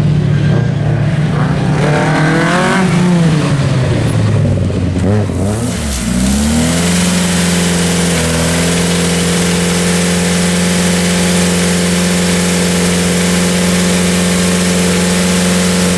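Group B rally car engine revving, its pitch rising and falling over the first few seconds, then climbing and held at a steady high pitch for the rest.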